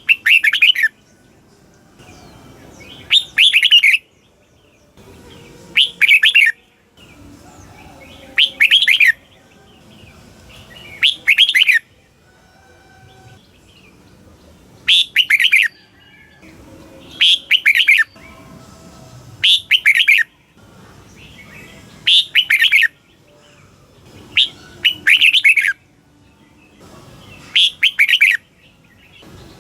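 Red-whiskered bulbul singing: loud, short phrases of quick warbling notes, repeated about once every two to three seconds.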